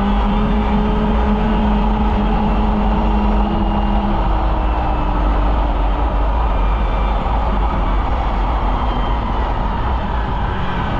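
Polaris Indy snowmobile running steadily on a trail, engine and track noise at an even speed; one steady tone in the engine sound drops out about four seconds in.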